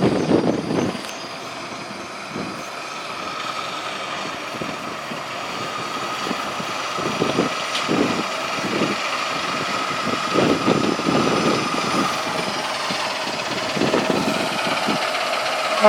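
Truck engine running, growing gradually louder.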